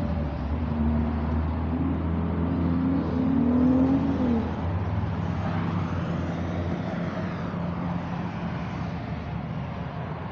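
A motor vehicle's engine running, its pitch rising and then dropping away about four seconds in, followed by a vehicle going past about six seconds in.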